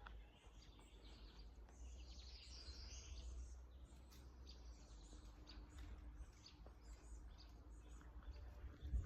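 Faint birdsong: scattered short high chirps and a brief warbling phrase about two seconds in, over a low steady rumble.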